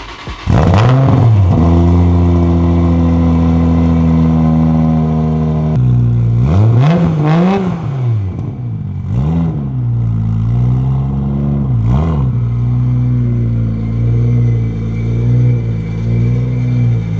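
Toyota Supra MK4's big single-turbo straight-six starts about half a second in and runs at a raised idle, then drops to a lower idle around six seconds in. The throttle is blipped a few times, each rev rising and falling quickly, before it settles back to idle.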